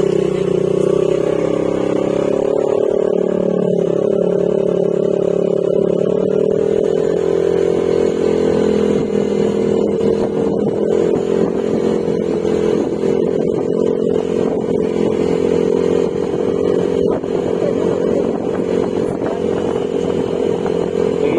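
Yamaha Mio Gravis scooter's 125 cc single-cylinder engine running under way through an aftermarket Akrapovic exhaust with silencer. The engine note holds steady, with slight rises and dips in pitch.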